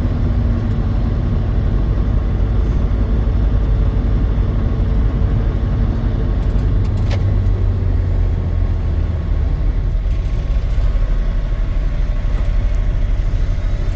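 Truck engine and road noise while driving: a steady low rumble that holds at an even level, with a single sharp click about seven seconds in.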